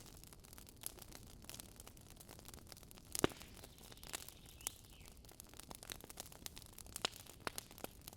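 Wood campfire burning with irregular crackles and pops, the loudest snap about three seconds in and another strong one near the end.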